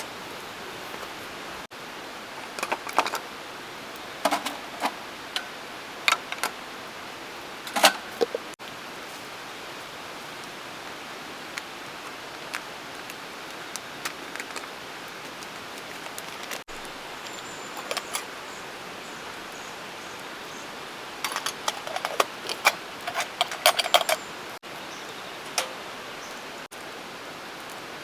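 Small metal camp cookware and utensils clinking and knocking, in a cluster of sharp taps early on and another busy cluster near the end, over a steady rushing hiss.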